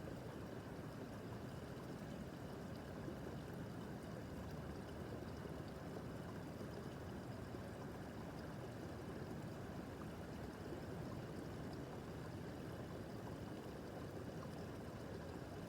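Babbling brook: shallow stream water running and gurgling steadily over stones.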